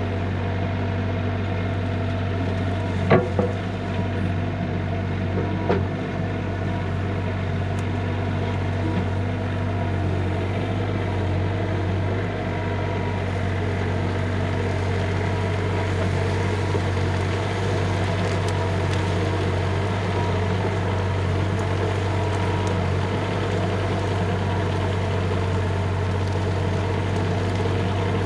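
Bobcat E35 mini excavator's diesel engine running steadily under work, with two sharp knocks about three and six seconds in.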